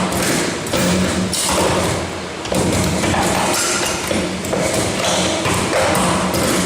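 Bucket-handle making machine running: repeated thuds and metallic clatter roughly once a second over a steady motor hum.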